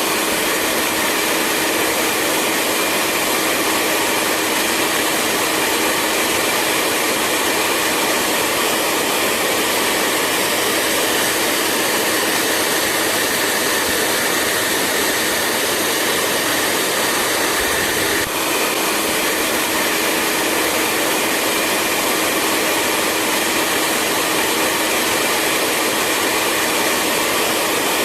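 Hair dryer running steadily: a constant airy rush with a faint steady whine underneath, and a very brief dip about eighteen seconds in.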